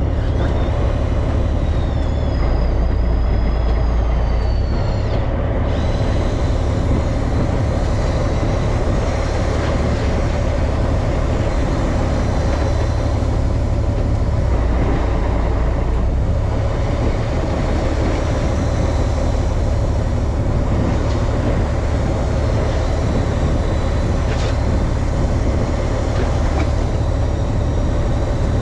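Fishing boat's engine running steadily, a loud low drone with a constant hum.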